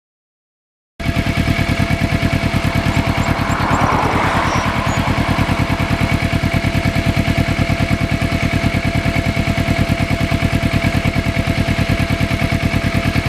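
Motorcycle engine running at a steady speed with an even pulsing beat. It cuts in abruptly about a second in and cuts off sharply at the end, with a brief hiss about three seconds in.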